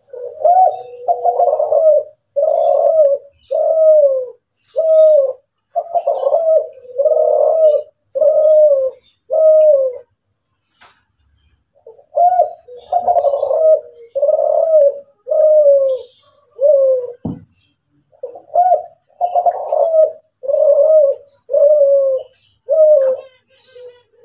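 Kelantan-strain spotted dove (derkuku) cooing: long runs of evenly repeated low coo notes, broken by two short pauses. A brief low thump comes about 17 seconds in, and faint high chirps of other small birds are heard behind.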